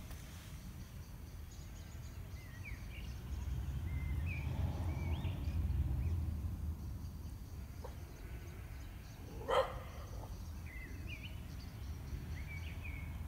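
Small birds chirping now and then over a low outdoor rumble, likely wind on the microphone, that swells for a few seconds. About ten seconds in comes one brief, sharp, louder sound.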